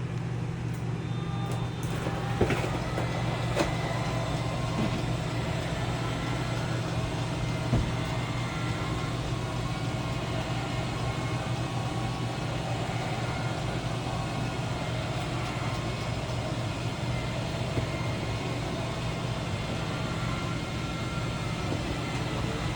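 Electric slide-out mechanism of a Forest River Wildwood FSX 280RT travel trailer running steadily as the slide room retracts, a constant low motor hum, with a few clicks in the first eight seconds.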